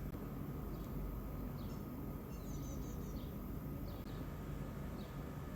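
Small birds chirping in short, scattered calls, including a quick run of chirps mid-way, over a steady low outdoor rumble.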